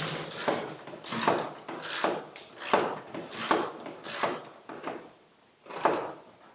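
Hand ratchet driving a headlight mounting bolt: a regular series of short rasping strokes, about one every three-quarters of a second, pausing briefly near the end before one last stroke.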